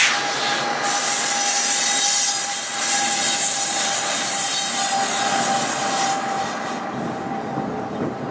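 Train passing close by: a dense rushing noise of wheels on rail. It is loudest from about one to six seconds in, then eases off.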